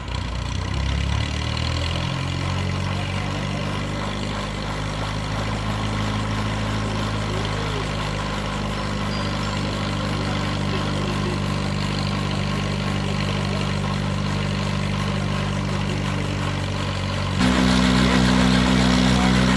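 Engine of a homemade helicopter running. It picks up over the first couple of seconds and holds a steady note, then about 17 seconds in it revs up sharply, louder and higher-pitched.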